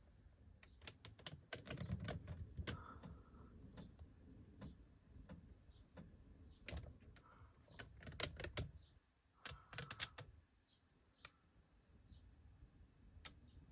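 Faint scattered clicks and light taps, some coming in quick clusters, over a low rumble.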